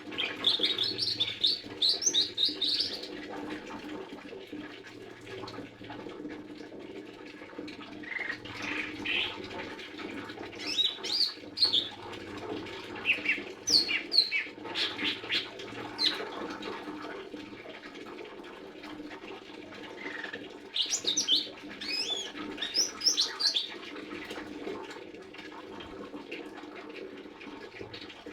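Lesser green leafbird singing in several bursts of quick, high chirping phrases, with pauses between them, over a steady low hum.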